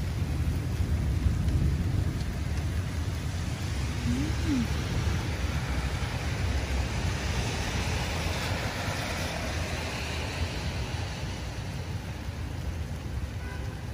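Rain falling steadily over a low, uneven rumble. The hiss of the rain swells for a few seconds around the middle.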